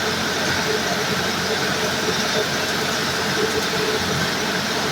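Sawmill machinery running steadily, a continuous mechanical noise with a low hum, while cutting pine into pallet stock.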